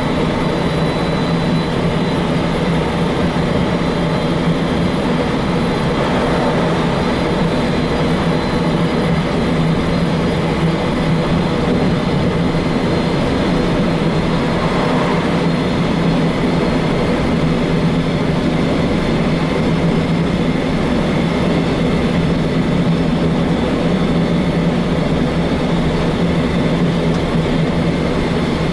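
Semi-truck diesel engine running steadily at cruising speed, heard from the cab, with a constant low drone and road noise.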